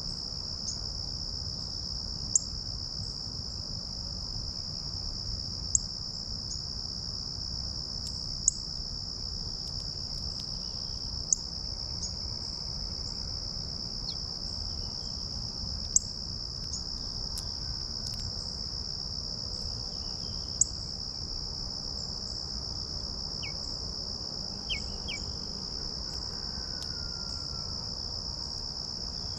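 Insects, typical of crickets, trilling in one steady high drone, with a bird's sharp chip notes cutting in every few seconds and a few short falling calls near the end.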